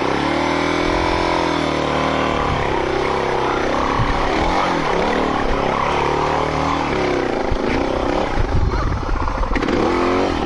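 Dual-sport motorcycle engine revving up and down under the throttle, its pitch rising and falling again and again.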